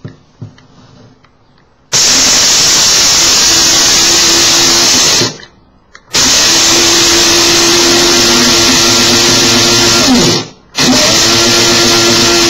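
Krups electric coffee grinder pulsed three times on fenugreek seeds: the motor and blade run loud and steady for a few seconds each, with short pauses between runs.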